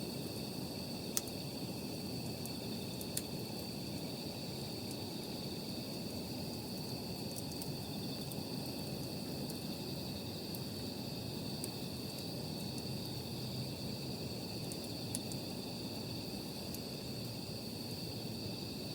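Steady high trilling of night insects, over a low steady rush, with a few sharp pops from a crackling wood campfire.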